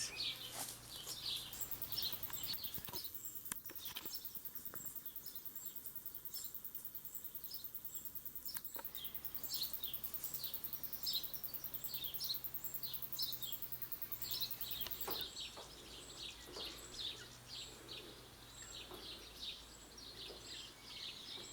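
Small forest birds calling: many short, high chirps and call notes, scattered throughout.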